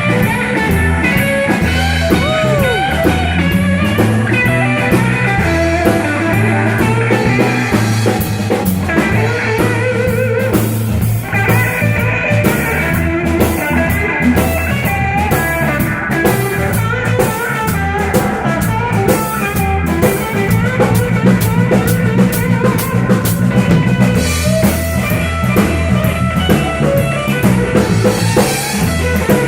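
Blues band jamming: guitar playing lead lines with bent notes over bass and drum kit with a steady cymbal beat.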